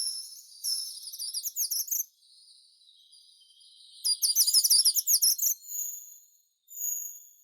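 Songbirds singing: two bursts of rapid, very high-pitched twittering song, each about a second and a half long, followed by a few thin high whistled notes near the end.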